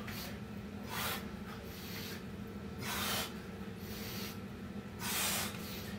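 Hard, breathy exhalations from a man working through Navy SEAL burpees: three, about two seconds apart, the last one longer. A steady low hum runs underneath.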